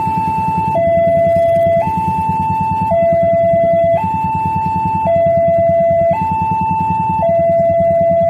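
Level crossing warning alarm sounding a two-tone high-low signal, switching pitch about once a second, over a steady low rumble.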